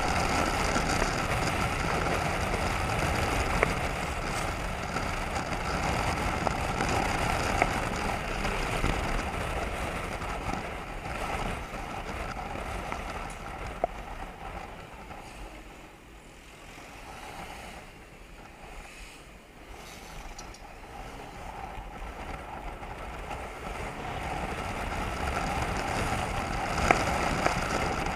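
Motorcycle riding on the road, its engine running under steady wind and road noise. The sound eases off about halfway through, as if slowing, then builds back up.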